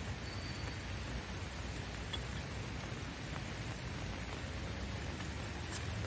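Steady rain falling, an even hiss with one faint tick near the end.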